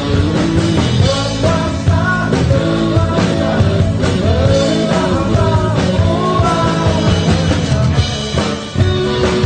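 A rock band playing a song, with a sung vocal line over the instruments.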